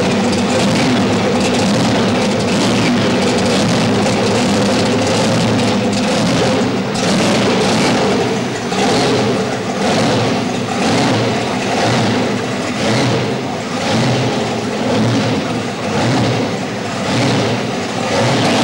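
Supercharged, injected V8 in a show Camaro running loud, with a big blower and injector stacks sticking out through the bonnet. It holds steady at first, then from about seven seconds in it surges with a throttle blip about once a second as the car moves off.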